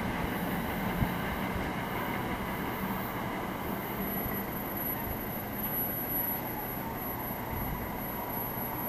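NJ Transit commuter train, an ALP-46 electric locomotive with Comet coaches, running away down the track with a steady rail rumble that slowly fades.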